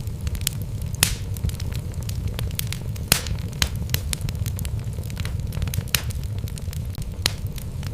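Wood fire burning in a fireplace: a steady low rumble of flames with frequent sharp crackles and pops from the burning logs, a few louder pops scattered through.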